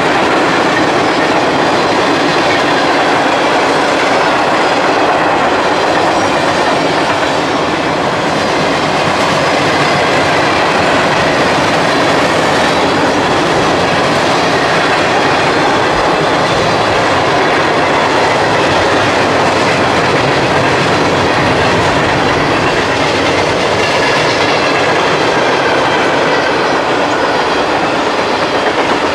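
Freight train cars rolling steadily past, their wheels clacking over the rail joints; loud and even throughout.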